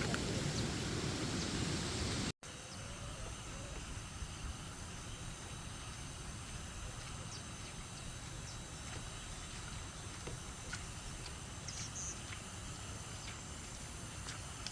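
Outdoor rural background ambience: a louder steady hiss, then after a sudden cut about two seconds in, a quieter steady background with faint high-pitched tones and scattered small clicks.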